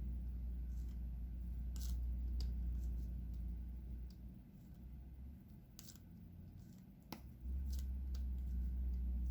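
Scattered small clicks and taps of diamond-painting work, a few each second at most, over a steady low hum that drops out for a few seconds in the middle.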